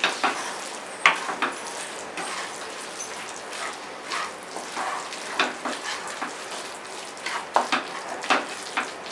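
Onion-tomato masala sizzling in an iron kadai, freshly mixed with spice powders, while a wooden spatula stirs it and scrapes and knocks against the pan at irregular intervals.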